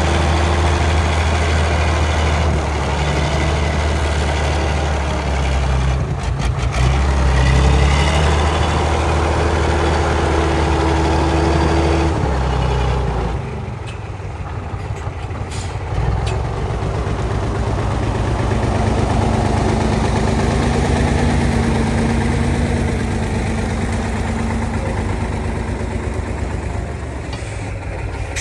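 Heavy diesel truck engine running with a strong, steady low hum as the truck works over a slippery dirt track. The engine note drops away for a couple of seconds about halfway through, then comes back steady.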